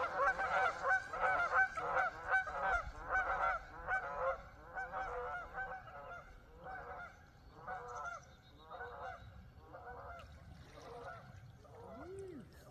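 Geese honking over and over, the calls crowding together at first and then thinning to single honks about once a second as they grow fainter.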